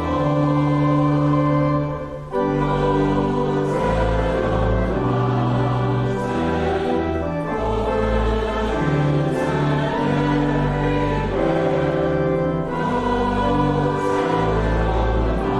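A group of voices singing a hymn in chorus with instrumental accompaniment, long held chords over deep bass notes that change every second or two, with a short break between phrases about two seconds in.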